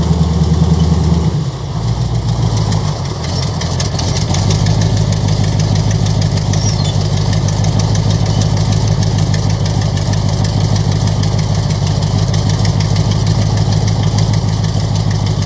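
An engine running steadily. Its note drops and changes about a second and a half in, then settles into an even idle from about four seconds on.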